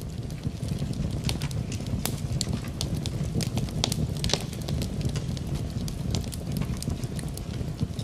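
Wood fire crackling in a fireplace, with frequent irregular sharp pops and snaps over a steady low rumble, mixed with rain.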